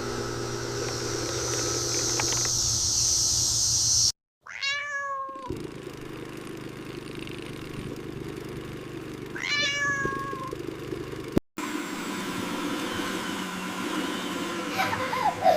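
A steady hum and hiss that cuts off abruptly after about four seconds, then a cat meowing: one meow just after the cut and a second about five seconds later, with another short call starting right at the end.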